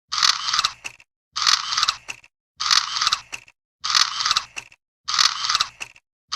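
A short crunching mechanical clatter, repeated five times at even intervals about a second and a quarter apart, with silence between. Each repeat is identical to the others.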